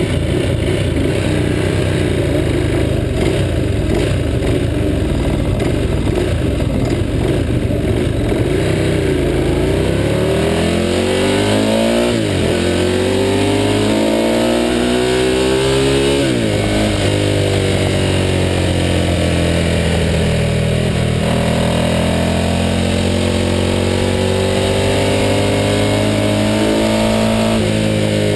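A Ducati 916's 90-degree V-twin engine. It runs roughly at low speed for the first several seconds, then accelerates hard through the gears, its pitch climbing and falling back at upshifts about 12 and 16 seconds in. After that it holds at a steadier speed, with another shift near the end.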